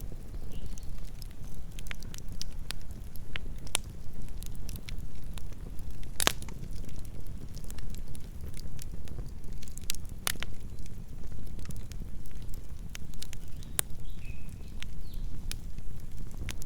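Campfire burning: a steady low rumble of the flames with scattered crackles and sharp pops of burning wood, the loudest pops about six and ten seconds in.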